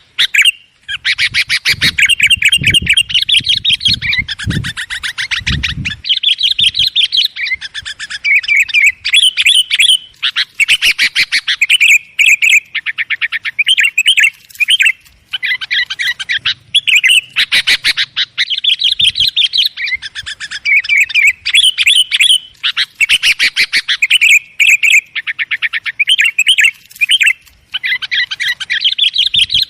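Sooty-headed bulbuls (kutilang) chattering noisily, with rapid runs of calls in phrases of a second or two separated by short gaps. There is a low rumble under the calls in the first few seconds.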